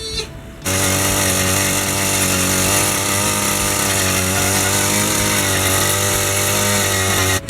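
80cc two-stroke engine of a motorized bicycle with an expansion-chamber exhaust, running at steady high revs with a buzzing note. It starts abruptly just under a second in and cuts off just before the end.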